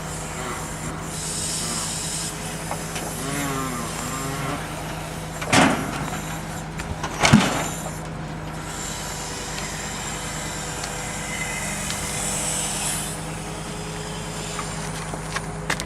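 KAMAZ timber truck running steadily while logs are loaded onto it, with two loud knocks about five and a half and seven seconds in as logs strike the load.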